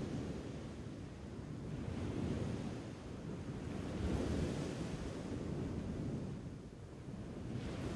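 Ocean waves surging and washing onto a shore, a steady rushing that swells and ebbs about three times.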